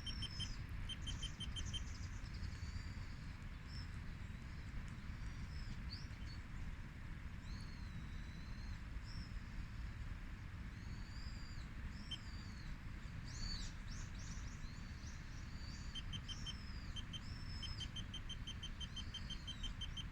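Small birds chirping with short, curving calls, with runs of rapid ticking calls near the start and again in the last few seconds, over a steady low rumble.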